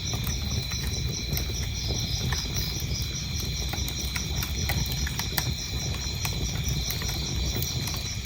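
Wood fire crackling in a fireplace, with irregular sharp pops over a low, steady noise of the flames. Crickets chirp behind it in a fast, even pulse that does not change.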